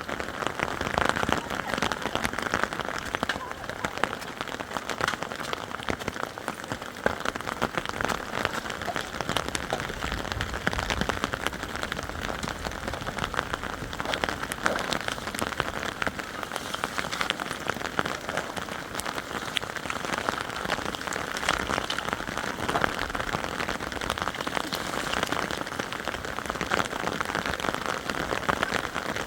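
Heavy rain falling steadily, with a dense scatter of sharp drop impacts on nearby surfaces.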